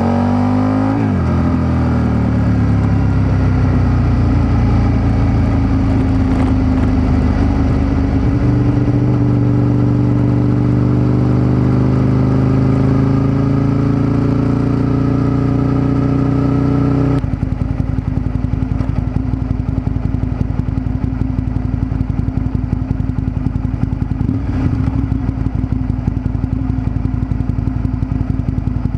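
Aprilia RSV Mille's V-twin engine through an Arrow exhaust, recorded from under the seat while riding: it runs under load with its pitch slowly falling and rising. About two-thirds in it drops suddenly to a steady, pulsing idle.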